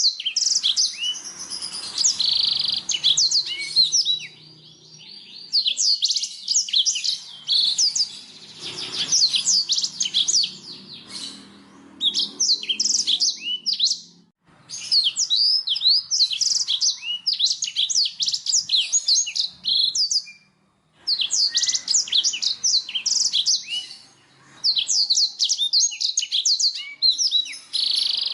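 Blackthroat (black-throated canary) singing clear, fast runs of high-pitched twittering and trilled notes in long phrases, broken by a few short pauses, as a song-tutoring recording.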